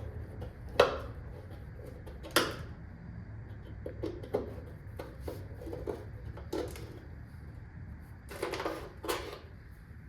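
Hand tools clinking and knocking on metal brake-line fittings: two sharp clanks in the first few seconds, a run of lighter clicks, and two short scraping sounds near the end.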